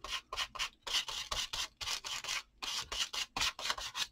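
Acrylic paint being scraped across a paper journal page in quick, repeated strokes, about three or four a second.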